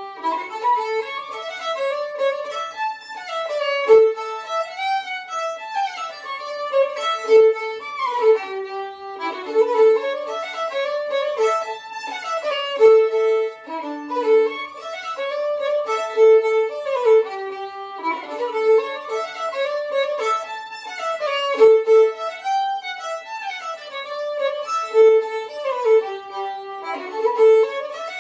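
Solo fiddle, a German violin over a hundred years old strung with Dominant strings, bowed through a lively tune. The tune runs in short phrases that repeat about every three seconds, with quick runs of notes falling and rising.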